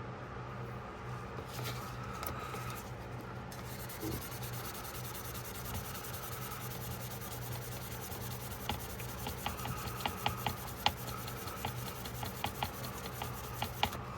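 Hand rubbing on a pocketknife blade, scrubbing at rust pitting with a small abrasive held under heavy pressure. In the second half a run of small sharp clicks joins the rubbing, over a steady low hum.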